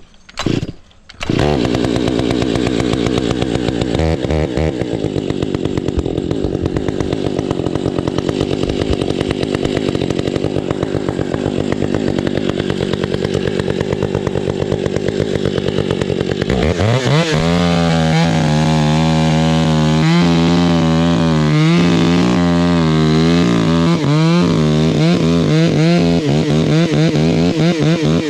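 Stihl MS 661 two-stroke gas chainsaw: the engine catches about a second in and runs at low speed, then about 17 seconds in it revs up to full throttle and holds high, the pitch wavering as it cuts through thick wood.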